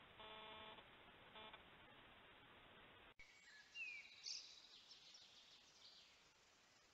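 Faint hiss with a short, steady beep-like tone near the start. After a sudden cut a little past three seconds, wild birds call in the forest, with two brief calls loudest about a second after the cut.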